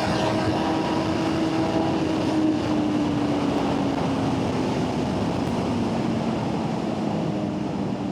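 Inline-four litre sport bike engine running at highway speed, its note slowly falling as the revs drop, under a steady rushing noise.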